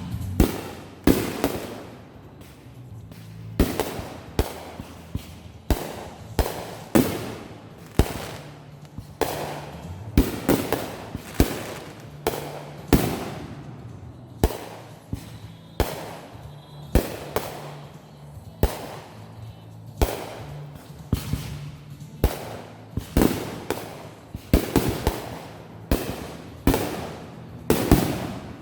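Consumer fireworks going off in a long, steady run of sharp bangs, about one a second, each fading away after the report.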